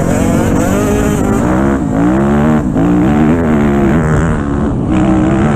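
Dirt bike engine revving under throttle. Its pitch rises, drops sharply twice about two and three seconds in, then climbs and holds.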